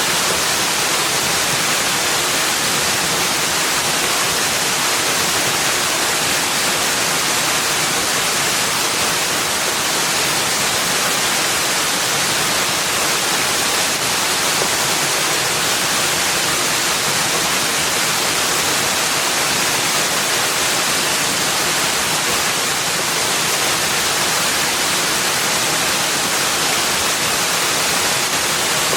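Steady rushing water, an even hiss that holds unchanged throughout with no separate events.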